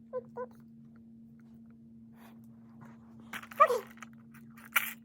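Two short pitched yelps at the start and a falling squeal about three and a half seconds in, from an animal or a person. A steady low hum runs underneath, and a sharp click comes near the end.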